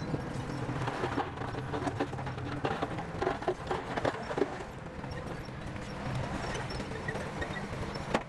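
Bulldozer diesel engine running steadily, with irregular clanks and knocks crowded into the first half and one sharp knock near the end.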